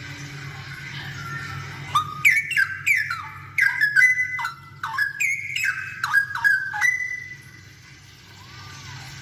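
Straw-headed bulbul (cucak rowo) singing: a loud run of clear whistled notes, each sliding downward, lasting about five seconds, over a steady low hum.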